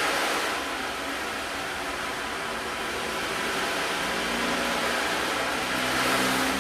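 Sound-bath instruments: a swelling wash of hissing, shimmering noise that rises and falls, with low held tones coming in about four and a half seconds in.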